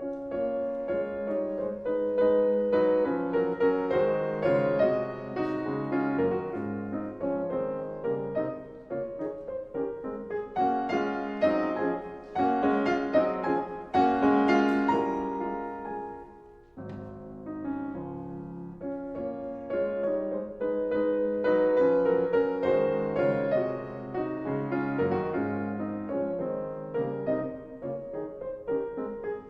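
Solo piano music, slow and gentle, with a brief pause about two-thirds of the way through.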